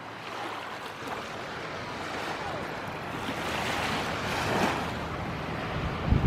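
Sea surf washing onto a sandy beach, swelling to a peak about four seconds in, with a short gust of wind buffeting the microphone near the end.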